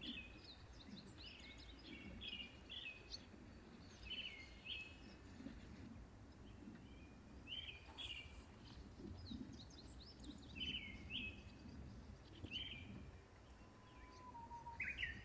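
Small birds chirping, short repeated calls coming every second or so, over a faint low outdoor rumble.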